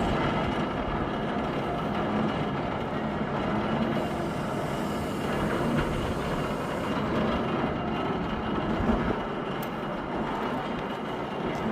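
Train cars rolling across a railroad drawbridge trestle, a steady rumble.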